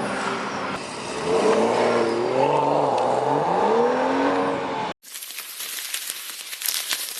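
BMW 335i's exhaust, with the mid muffler deleted, revving loud, its pitch rising and falling. About five seconds in it cuts abruptly to a harsh hissing crackle.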